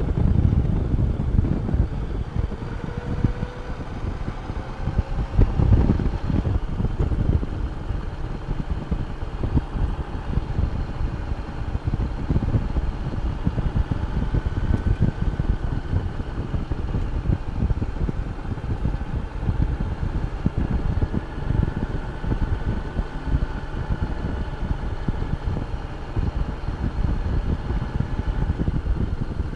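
Honda Gold Wing motorcycle riding along at road speed: the engine runs steadily under a heavy, fluttering wind rush on the microphone.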